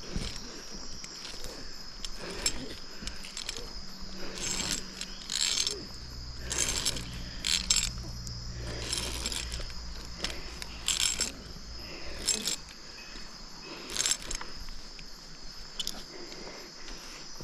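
Rope-climbing gear clicking and rattling as a climber ascends a rope, in irregular clacks every second or two. Underneath, a steady high-pitched drone of night insects.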